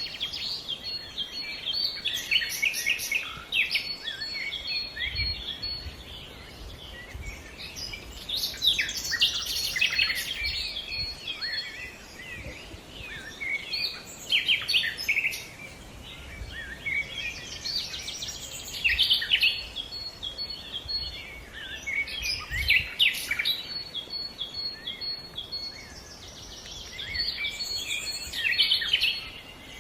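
Several wild birds singing and calling together in a forest, a dense chorus of chirps and trills with a rapid run of repeated high notes recurring; the chorus swells and eases every few seconds.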